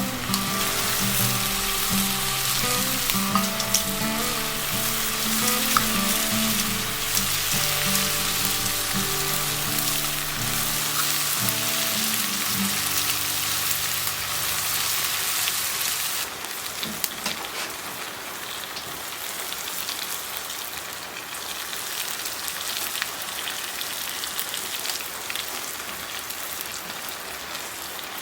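Food sizzling and crackling as it cooks over a fire, a dense spitting hiss that drops somewhat in level about 16 seconds in. Background music plays under it for the first dozen seconds or so.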